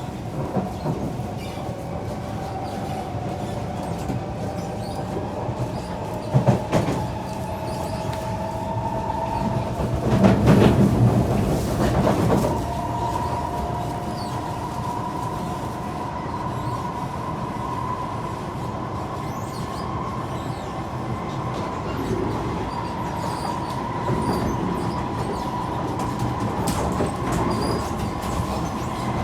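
Kawasaki C151 metro train running between stations: a steady rumble of wheels on rail under a motor whine that rises in pitch over the first several seconds and then holds steady as the train cruises. A sharp knock about six seconds in and a louder, heavier rumble around ten to twelve seconds stand out from the running noise.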